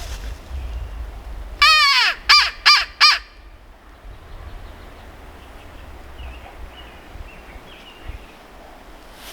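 Crow cawing four times, one longer caw then three short ones in quick succession, over wind rumbling on the microphone.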